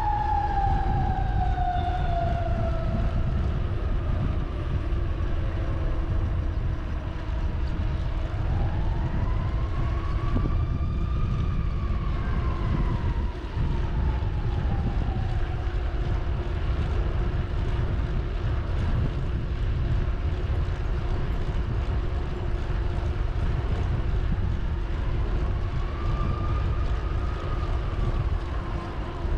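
Wind rumbling on the microphone of a moving bicycle, with a siren in the distance. The siren glides down at first, then wails slowly up and down twice over a steady hum.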